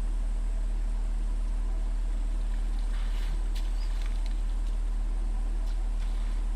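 Steady low hum of an idling vehicle engine. About three seconds in comes a short hissing splash with a few faint clicks, which fits an elephant spraying water over itself.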